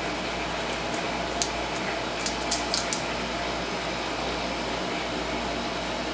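Steady fan-like noise with a few light clicks and taps in the first half, as a bottle of Worcestershire sauce and a measuring spoon are handled.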